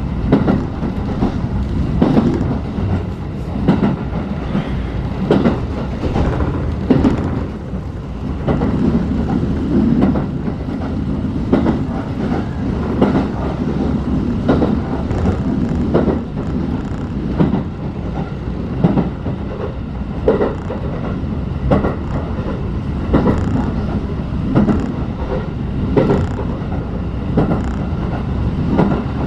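Inside a locomotive-hauled passenger coach on the move: a steady rumble from the running gear, with the wheels knocking clickety-clack over rail joints about once a second.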